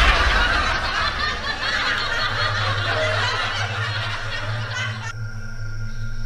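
Snickering laughter that cuts off suddenly about five seconds in, leaving steady cricket chirring.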